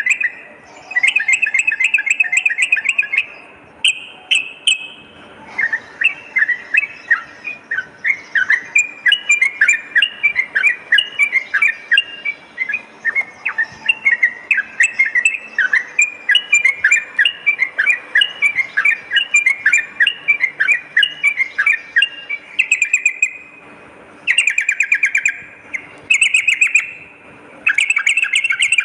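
Yellow-vented bulbul (trucukan) calling: rapid, bubbly chattering phrases in bursts, with one long unbroken run of notes through the middle.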